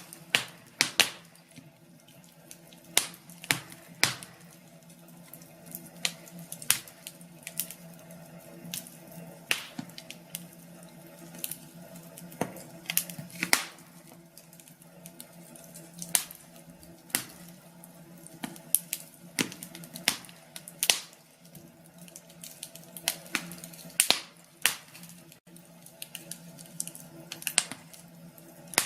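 Wood fire in a fireplace crackling: irregular sharp pops and snaps, some much louder than others, over a soft steady background.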